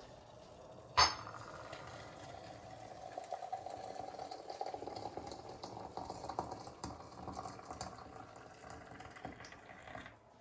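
A sharp clink about a second in, then liquid running or bubbling with a steady tone and fine crackle, stopping suddenly near the end.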